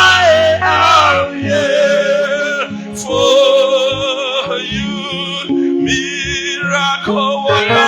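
Worship singing: a voice holding long notes with a marked vibrato over sustained instrumental accompaniment with low bass notes.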